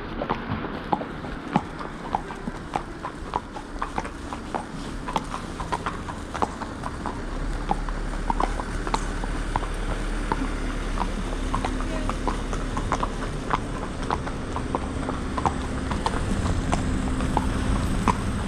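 Horses' hooves clip-clopping at a walk on a hard road surface, a steady run of sharp hoof strikes. A low steady hum joins about seven seconds in.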